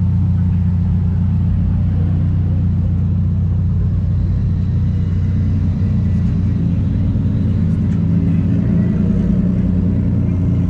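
Deep, steady engine rumble of a vehicle running at low revs close by, swelling slightly near the end.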